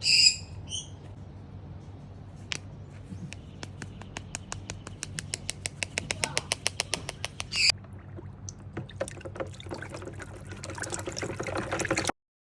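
Dyson vacuum cleaner stuttering, its motor cutting in and out as a rapid run of clicks before building up and stopping abruptly, a sign of a blocked filter.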